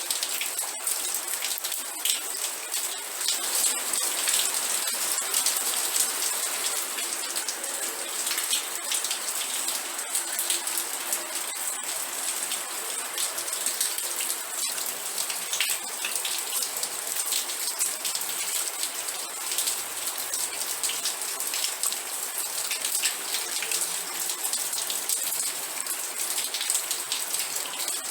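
Steady rain with close, distinct raindrops pattering and dripping on a surface.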